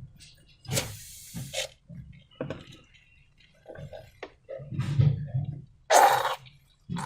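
Slime being squeezed and worked by hand, making irregular wet, sticky squelches in short bursts. The loudest burst comes near the end.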